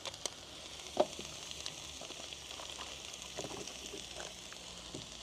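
Diced chicken, onions, peppers and mushrooms sizzling steadily on an electric teppanyaki griddle plate. A sharp knock about a second in and a few lighter clicks and taps come from handling food and utensils on the plate.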